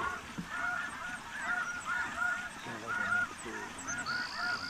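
Snow geese calling: a dense chorus of short, high honks repeating and overlapping without a break. A brief thin high tone sounds near the end.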